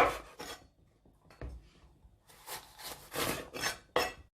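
Knife cutting a bell pepper on a cutting board: a few rasping slicing strokes, with a sharp knock of the blade on the board at the start and another about four seconds in.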